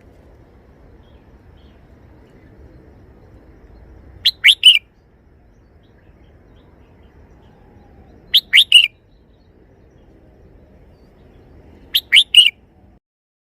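Red-whiskered bulbul singing its short three-note song phrase three times, about four seconds apart.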